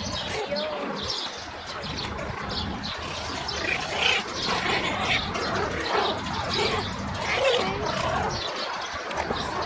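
Small puppies squeaking and whimpering, many short high cries overlapping one another.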